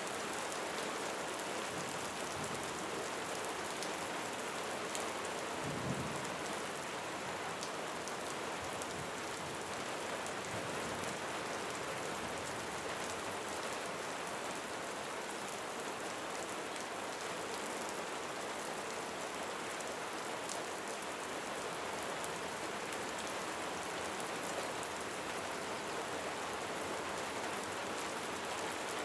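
Steady rain falling on a roof, an even patter and hiss. About six seconds in there is one brief low rumble, a small distant thunder.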